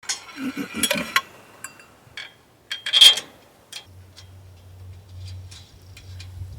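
Metal parts and hand tools clinking and clanking during assembly of a bandsaw mill, with scattered ticks and one loud clank about three seconds in. A low steady hum comes in about four seconds in.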